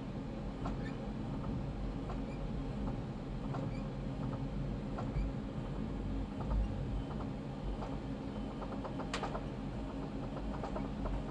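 Rapid transit train running very slowly around a tight curve: a steady low hum from the car with faint, short squeaks and ticks from the wheels on the rails, and one sharper click about nine seconds in.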